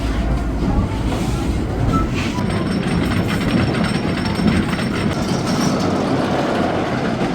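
Cars running along rails with a steady rumble and rattle, with a thin high squeal of wheels through the middle.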